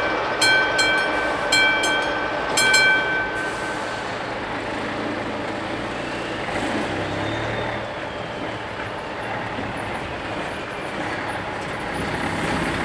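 Electric level-crossing bells of an AŽD 71 crossing ringing in strokes about once a second, then stopping about three seconds in. Under and after them runs the steady rolling noise of a passing freight train.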